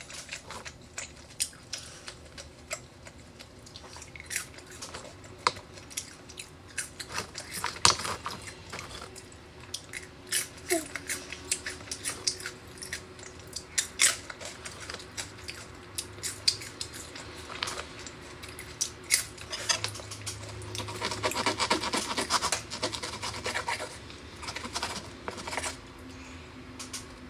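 Close-miked eating sounds: steak being chewed, with many sharp wet mouth clicks. Later come the scrape and clink of a knife and fork cutting the steak on a wooden board.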